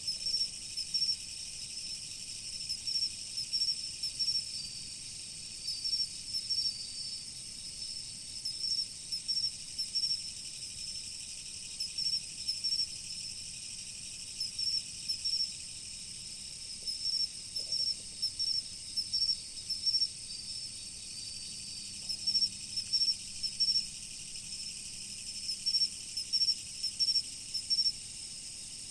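Autumn crickets chirping: groups of a few short high chirps, repeating about once a second with brief pauses, over a steady high-pitched trilling of other insects.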